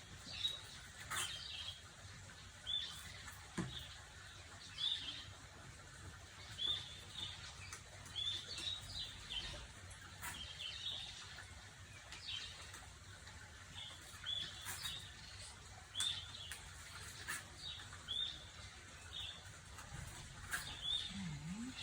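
A small bird chirping over and over, short high chirps about once a second, with a few faint clicks in between.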